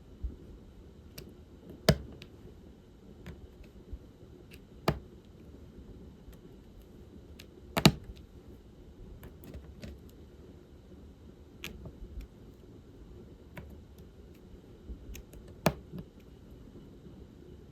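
Irregular small clicks and taps of diamond painting work: a drill pen setting plastic resin drills onto the adhesive canvas. A few louder sharp clicks stand out, about four in all.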